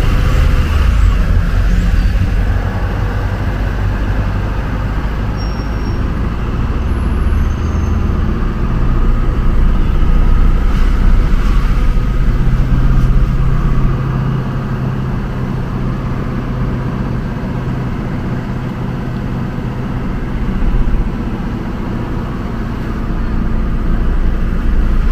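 Motor vehicle driving: a steady low engine and road rumble that swells and eases a little, louder about halfway through and again near the end.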